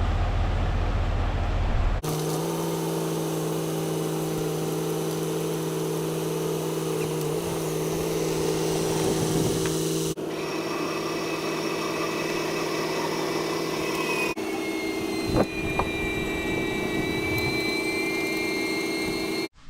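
Steady motor hum with a fixed pitch, heard in several clips that cut abruptly from one to the next; in the last clip higher tones slowly rise and fall.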